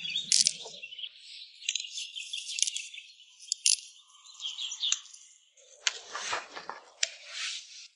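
Small birds chirping and twittering in a quick string of short high calls, with a brief rustling burst about six seconds in.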